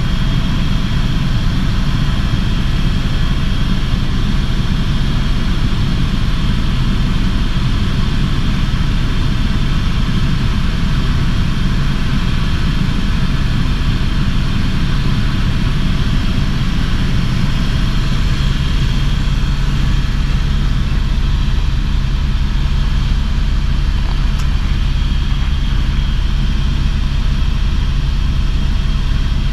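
Helicopter in flight: steady rotor and engine noise, a constant low drone with a faint high whine above it.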